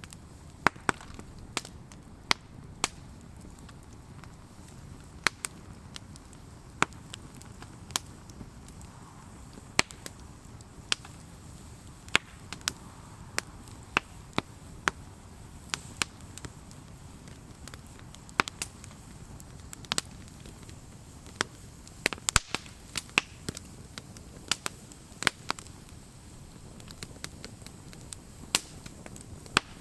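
Wood campfire crackling: sharp pops at irregular intervals, one or two a second and a quick cluster about two-thirds of the way through, over the low steady noise of the burning fire.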